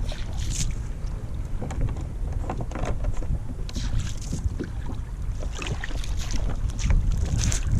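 Wind buffeting the microphone in a steady low rumble, with water splashing and lapping irregularly against a kayak.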